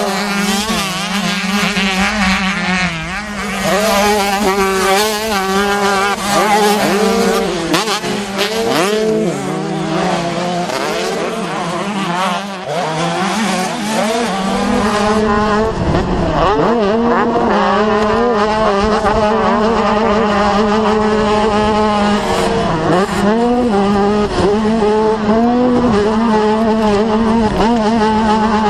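Several racing dirt-bike engines revving hard, their pitch rising and falling as the bikes race and pass, over a steady low engine drone.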